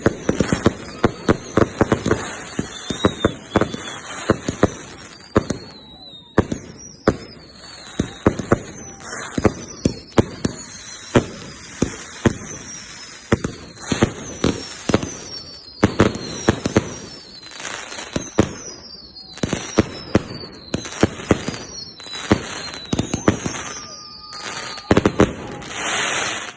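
Fireworks display from a linked set of firework batteries: rapid launches and bangs, overlapping falling whistles, and a loud sustained hiss near the end before it cuts off.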